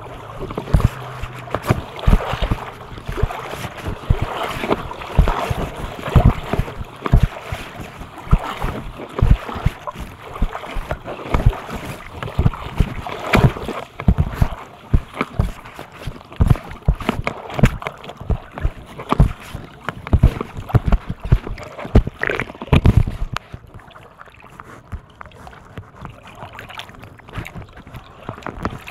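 Irregular knocks and thumps, often several a second, over a rough noise of water and wind. The knocks grow sparser and the noise quieter about 23 seconds in.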